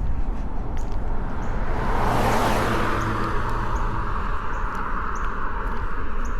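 A car passing on a paved road, its tyre and engine noise swelling to a peak about two and a half seconds in and then fading. Birds give short chirps over it throughout.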